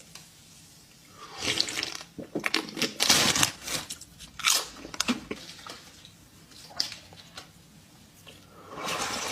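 Close-miked eating sounds: a person biting into and chewing crunchy sweets, in irregular crackly bursts with quiet pauses between.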